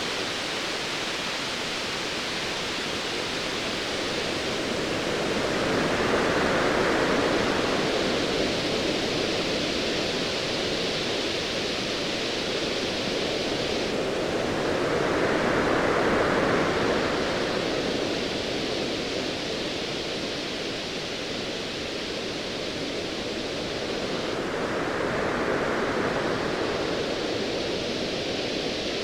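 Ocean waves surging in over a steady rushing wash of surf. Three swells rise and fall about ten seconds apart.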